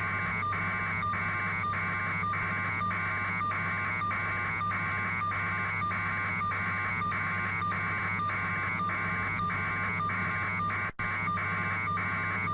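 Steady hum with a pulsing electronic noise about twice a second, as heard over a phone or radio link, with a brief dropout near the end.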